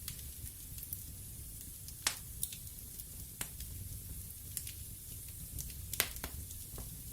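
Wood fire in a fireplace burning steadily with a low rumble and hiss, broken by sharp crackles and pops of the burning wood; the loudest pops come about two seconds in and about six seconds in.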